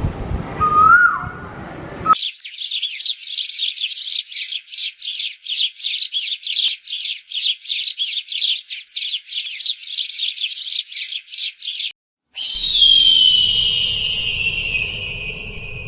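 Bird calls: a rapid series of chirps, about three a second, for roughly ten seconds. After a short break comes a long whistle that slides down in pitch.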